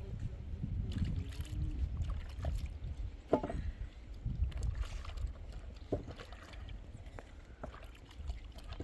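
Low rumbling wind buffeting the microphone, with a few sharp knocks, the loudest about a third of the way through.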